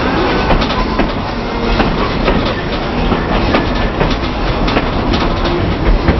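Narrow-gauge passenger train rolling along the track: a steady rumble with irregular clacks of the wheels over rail joints.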